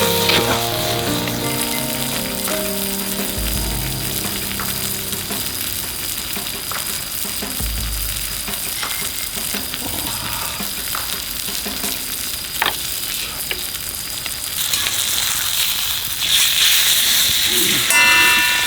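Steak sizzling in a hot pan: a steady frying hiss with a few sharp pops.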